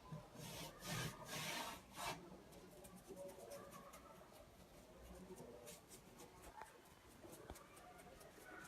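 About four short rubbing strokes across a hard surface, like sanding or scrubbing, in the first two seconds, followed by faint scattered light ticks and taps.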